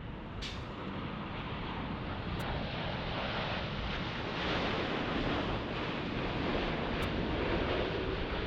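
Jet airliner passing, its engines heard as a steady rushing noise that grows louder about halfway through.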